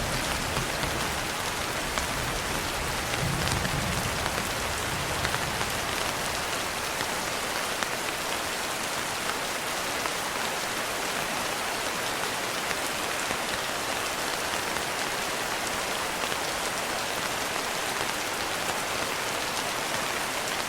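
Gentle rain falling steadily, an even hiss of drops. A low rumble lies under it at the start and dies away about six seconds in.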